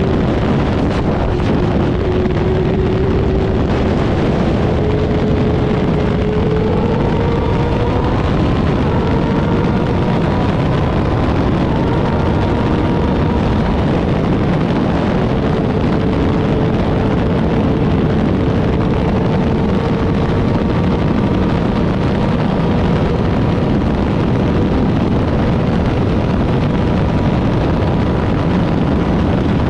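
Motorcycle engine running at road speed, buried under heavy wind rush on the microphone; its note climbs a little over the first several seconds, then holds steady.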